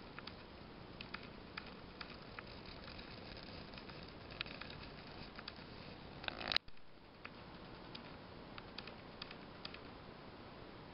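Friction-driven tinplate toy bullet train running on O gauge track, wheels clicking irregularly over the rails against a low rolling noise. About two-thirds of the way through a brief louder rattle cuts off abruptly.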